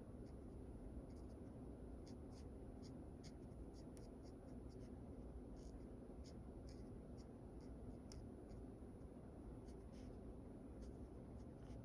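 Quiet scratching of a drawing tool on paper: short, irregular sketching strokes, many in a row over a faint steady hum.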